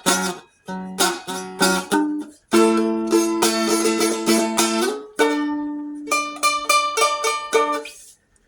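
Seagull Merlin strummed dulcimer being strummed in chords: a few quick strums, then a chord held and re-strummed. It changes to another chord about five seconds in and stops shortly before the end.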